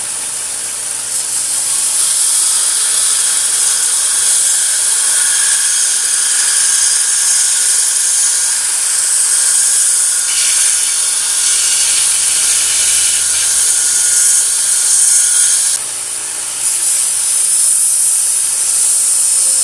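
Power grinder grinding the steel of a forged smatchet blade: a loud, steady abrasive hiss. It drops off for about a second near the end, then comes back.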